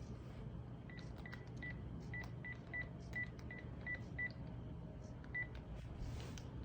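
A run of short, high electronic beeps all at one pitch, about three a second, like keypad or button tones, with a last beep near the end, over a steady low hum.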